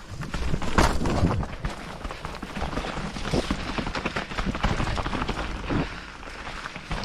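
Mountain bike riding down a rough, wet trail: a continuous clatter of knocks and rattles as it goes over the ground, loudest about a second in.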